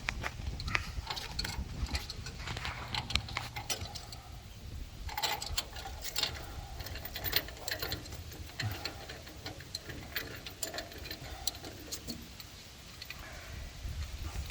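Irregular metallic clicks and clinks of threaded pipe fittings, valves and nipples being handled and unscrewed as a mocked-up boiler pump assembly is taken apart, over a low steady hum.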